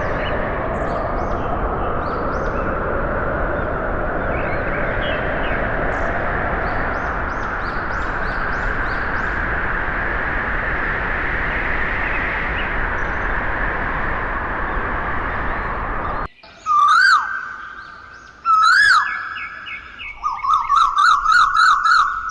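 A small motor running steadily with a slowly wavering whine, faint high chirps over it. About sixteen seconds in it cuts off suddenly, and loud, sweeping, whistle-like chirps follow in short runs.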